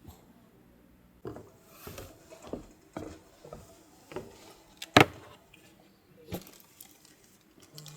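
Irregular knocks and clatters of things being handled, with one sharp, loud knock about five seconds in.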